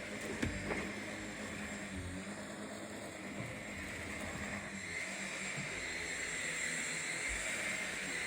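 Vacuum cleaner running steadily, a continuous motor hum and airflow whine, with a couple of small knocks about half a second in.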